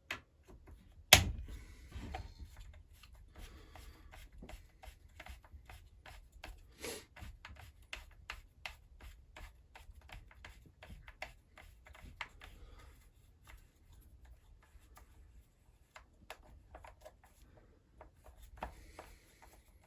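A hand tool undoing the starter-cover bolts on a Husqvarna 346XP chainsaw: a sharp knock about a second in, then a long run of small clicks and light scraping that thins out in the second half.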